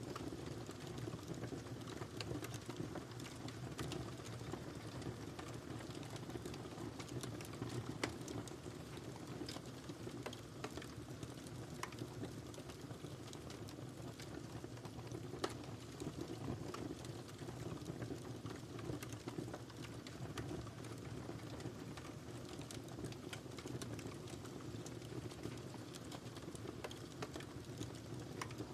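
Wood fire crackling in a fireplace: a steady low rush of burning with constant small crackles and an occasional louder pop.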